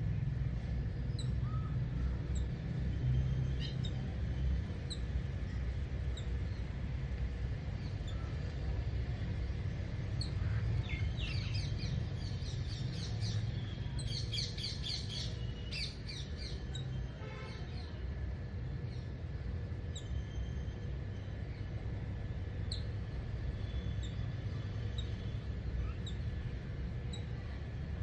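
Small birds chirping and calling, with a run of quick repeated song notes about halfway through, over a steady low rumble.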